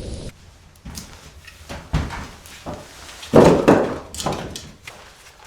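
A series of knocks and bumps, the loudest a clattering cluster about three and a half seconds in.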